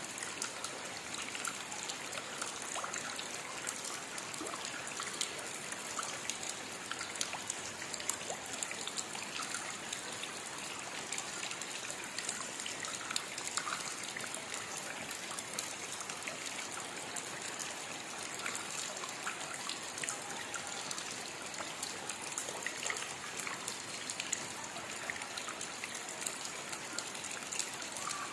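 Steady rain falling: a constant even hiss dotted with many sharp taps of individual drops.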